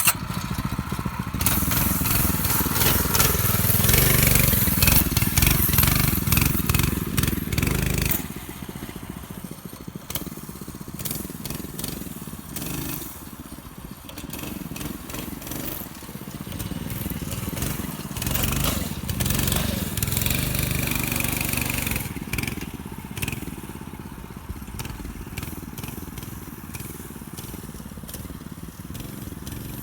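A 6.5 HP mini bike engine running under throttle as the bike is ridden into mud. It is loudest for the first eight seconds, then drops to a lower, uneven running for the rest.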